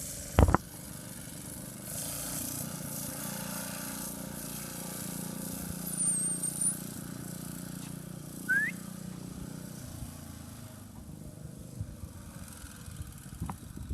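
A small engine running steadily at low speed in the background, with a sharp knock just under half a second in and two short high chirps partway through.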